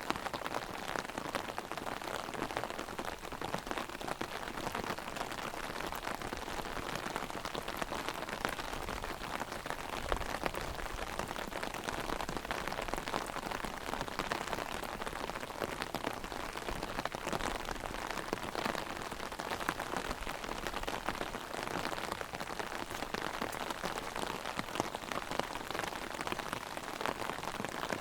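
Heavy rain falling steadily on an open umbrella overhead: a dense, even patter of many small drop hits.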